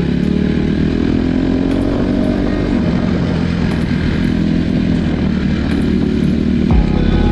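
Honda CRF250 dirt bike's single-cylinder four-stroke engine running while the bike is ridden, its pitch rising and falling slightly with the throttle.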